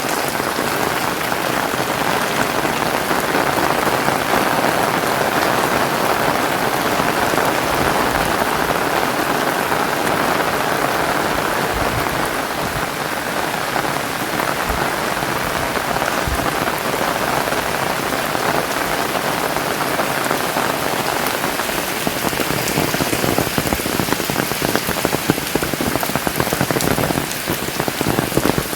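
Heavy rain pouring down steadily in a dense hiss, with the patter of drops growing more distinct near the end.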